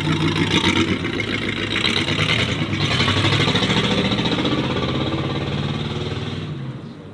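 Modified car's engine and exhaust pulling away under throttle, loud, then fading over the last second as the car drives off.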